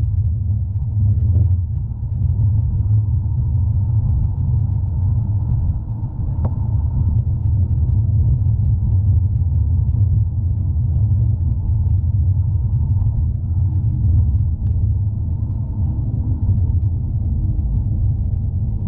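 City tram in motion heard from inside the passenger car: a steady low rumble of the running gear on the rails.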